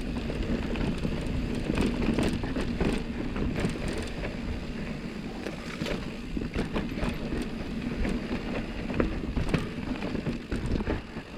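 Mountain bike riding a loose, dusty dirt trail: a steady rumble of tyres on dirt and wind on the microphone, with frequent short clicks and clatters from the bike over rocks.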